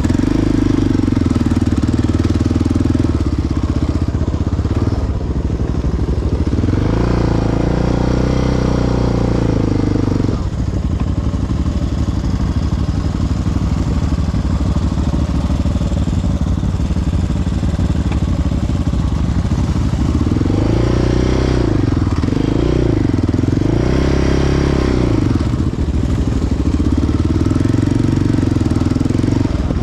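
Single-cylinder four-stroke sport quad engine running at steady low throttle. It revs up for about three seconds, about a quarter of the way in, then revs up and back down three times near the two-thirds mark.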